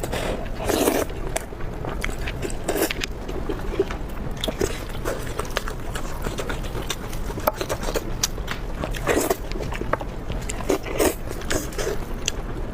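Close-miked eating: a person biting and chewing food, with many small sharp mouth clicks and a few louder bites, about a second in, near three seconds and twice in the last few seconds.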